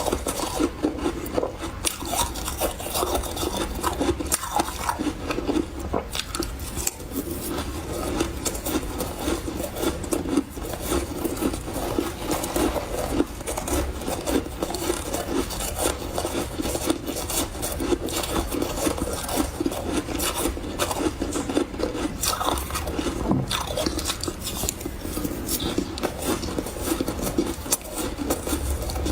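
Close-miked chewing of refrozen powdery ice: a continuous run of soft, rapid crunches.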